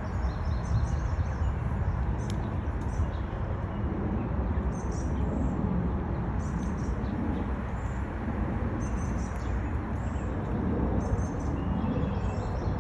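Outdoor ambience of a steady low rumble with small birds chirping on and off throughout.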